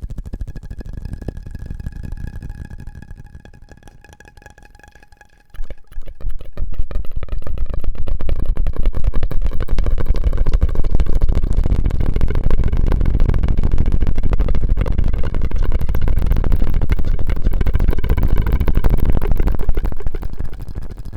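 Close-miked ASMR mouth and straw sounds: quieter at first over a faint steady tone, then from about six seconds in a loud, dense run of rapid crackling clicks that continues until shortly before the end.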